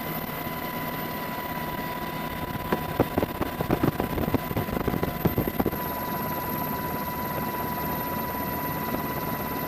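Steady mechanical rumble, like an engine or aircraft running, with a thin steady high tone over it. A quick flurry of knocks and clacks comes about three seconds in and lasts a few seconds.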